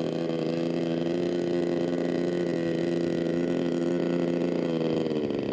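Model airplane's two-stroke glow engine, an OS 1.08, running steadily in flight with an even buzzing note that drops slightly in pitch near the end.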